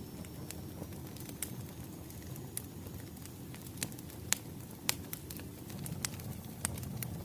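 Wood fire crackling: a steady low rumble of burning logs with sharp pops and snaps at irregular moments, several louder pops in the second half.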